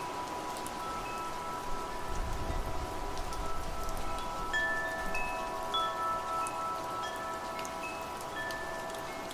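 Metal wind chimes ringing, several tones struck one after another and left to ring on together, over the steady hiss of falling rain. A soft low rumble comes in about two seconds in and fades.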